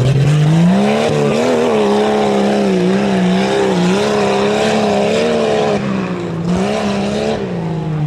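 Tuff truck's engine revving up hard and held at high revs, its pitch wavering up and down, then dropping off near the end.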